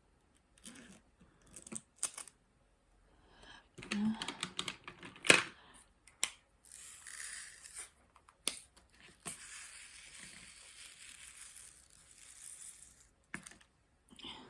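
Hands at work on a diamond painting: a few scattered sharp clicks and taps, the loudest about five seconds in, then a long crinkling rustle of plastic or paper from about six and a half seconds in until about thirteen.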